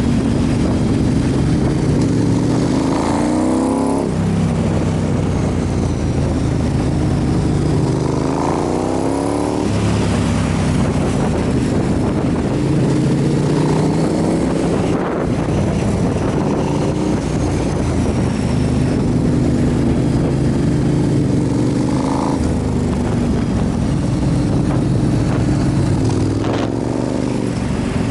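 Motorcycle engine pulling through the gears: the pitch climbs and drops back at each upshift, several times, over steady wind and road noise.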